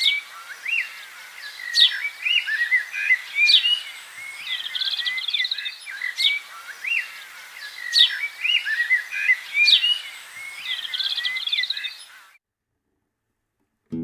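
Birds chirping and trilling, several calls overlapping. The same stretch of birdsong seems to repeat about every six seconds, like a looped recording, and it cuts off suddenly about twelve seconds in.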